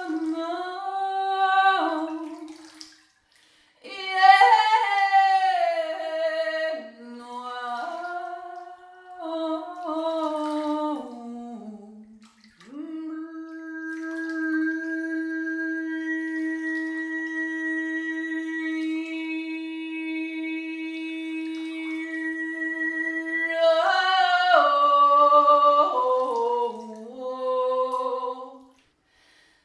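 A woman singing an improvised, wordless melody that glides and steps between notes, with short breath pauses. In the middle she holds one long steady tone for about ten seconds before moving off again.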